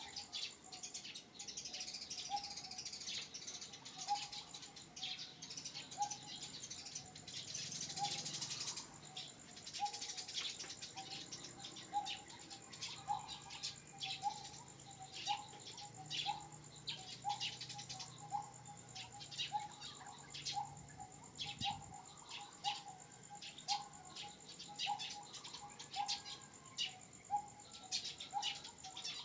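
Outdoor bird chirping: one bird repeats a short call, every couple of seconds at first and then about once a second, among sharp high chirps, over a steady high insect drone.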